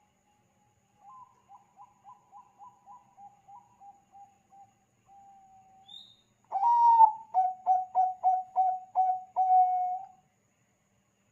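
Zebra dove (Thai 'bangkok' perkutut) cooing. First comes a faint run of quick, even coo notes. Then, about six seconds in, a loud phrase of rapid staccato coos ends in a longer held note.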